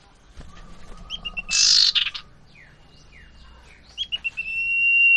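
Common iora (cipoh) calling: a few short clipped notes, a loud harsh burst about a second and a half in, then more short notes and a long steady whistle that starts near the end and grows louder.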